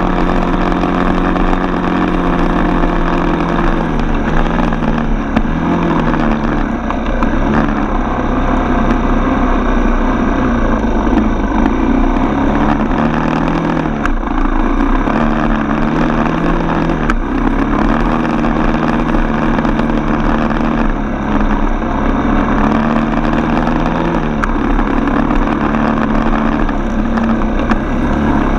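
Four-stroke single-cylinder dirt bike engine running under way, its pitch rising and falling again and again as the throttle is opened and closed.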